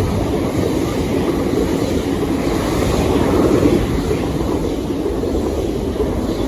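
A pair of South Western Railway Class 450 electric multiple units passing through the station, a steady rumble of wheels on rail that swells to its loudest about three to four seconds in.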